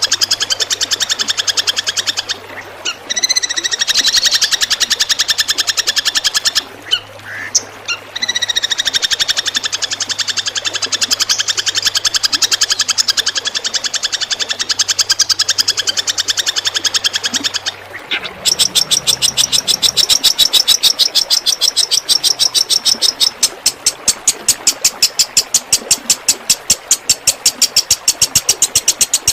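A songbird's rapid, staccato 'tembakan' song: a fast rattle of sharp notes, the kind of material used to train long-tailed shrikes. It breaks off briefly about three and seven seconds in. At around eighteen seconds it turns into a sharper, more evenly beating rattle.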